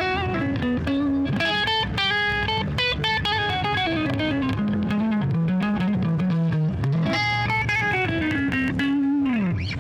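Electric guitar playing a melodic lead line of sustained notes with bends and slides, ending on a note that glides down just before the end.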